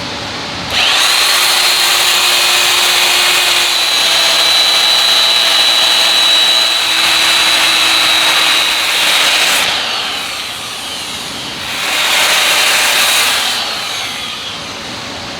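A power tool runs steadily with a high whine for about nine seconds, then again briefly for about two seconds near the end.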